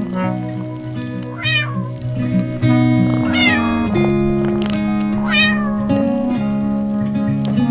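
A cat meowing three times, about two seconds apart, over light background music.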